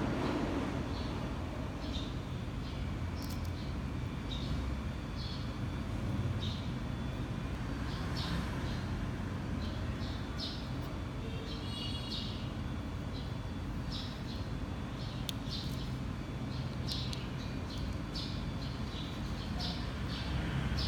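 Small birds chirping: short, high chirps, irregular and several a second at times, over a steady low background rumble.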